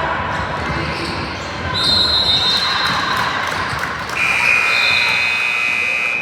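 Indoor youth game in a large echoing hall: a ball bouncing on the floor amid a steady hum of voices. Partway through, two long high-pitched squeals ring out, the second lower and louder.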